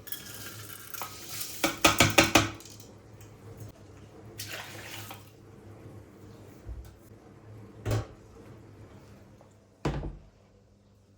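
Kitchen work at a sink: water running from a tap, a quick clatter of dishes and cutlery clinking about two seconds in, a short rush of water, then single knocks of crockery near the end.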